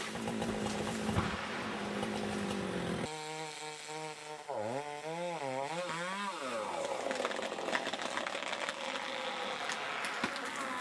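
Two-stroke chainsaw running steadily, its pitch swinging up and down a few times near the middle before it settles again.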